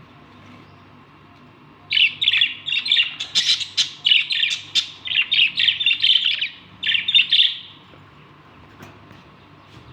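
Budgerigar chattering: a fast run of chirps and clicks that starts about two seconds in, lasts about six seconds with a short break near its end, then stops.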